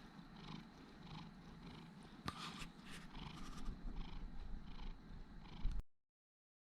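A domestic cat purring softly in an even rhythm, stopping abruptly near the end.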